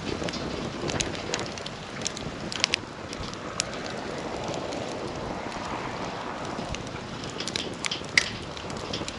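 Wood campfire burning, a steady rush of flame with scattered crackles and pops of burning wood; one sharp pop stands out about eight seconds in.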